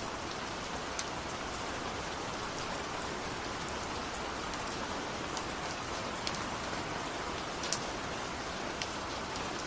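Steady rainfall hissing, with scattered sharp drips of raindrops landing on a surface.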